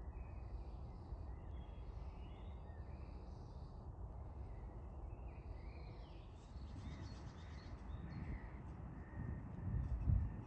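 Birds calling repeatedly in short notes, over a steady low rumble, with a few louder low thuds near the end.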